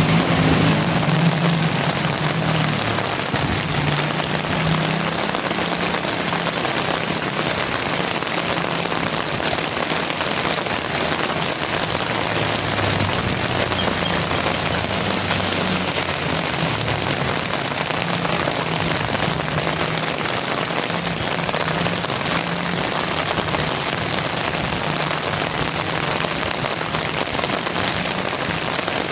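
Heavy rain falling steadily, an even hiss of drops on surfaces. A low rumble underneath comes and goes.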